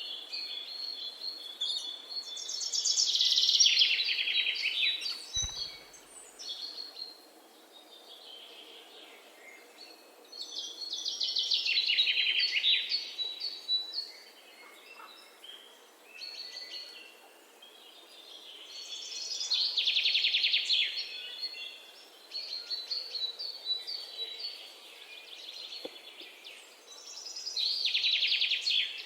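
Songbirds singing. One bird repeats a fast trill that falls in pitch, four times, about every eight seconds, and quieter chirps come in between.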